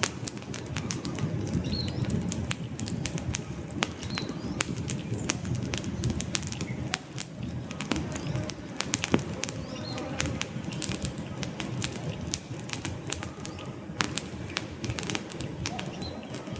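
Wood fire burning in a fireplace, with frequent sharp, irregular crackles and pops from the logs over a low fluttering rumble of the flames.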